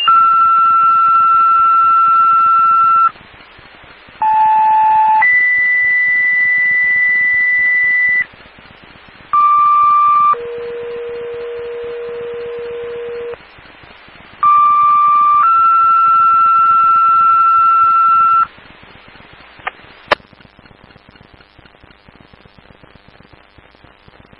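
Two-tone sequential paging tones on a fire/EMS dispatch radio channel. The end of one page comes first, a steady tone of about three seconds, then three more pages, each a short tone of about a second followed by a steady tone of about three seconds at a different pitch. These alert tones set off the pagers of the ambulance squads being called out. A sharp radio click comes near the end, followed by faint static hiss.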